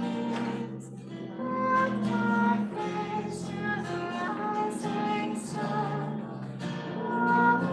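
Music with a female voice singing a slow melody, held notes changing about every half second to a second, over a soft instrumental accompaniment.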